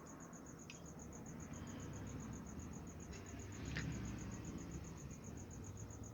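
A cricket chirping steadily in rapid, even pulses, over a faint low rumble with a few soft clicks.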